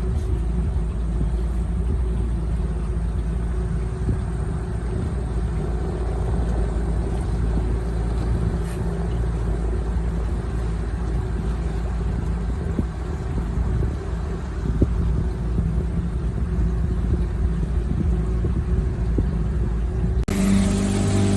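Boat motor running steadily at low speed, a continuous low rumble. About twenty seconds in, the engine note changes, becoming a stronger, clearer hum.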